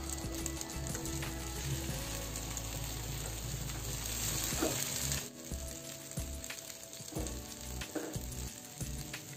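Masala-coated brinjal slices shallow-frying in coconut oil in a nonstick pan, sizzling steadily, with a few light clicks of forks against the pan as the slices are turned. The sizzle gets quieter a little past halfway.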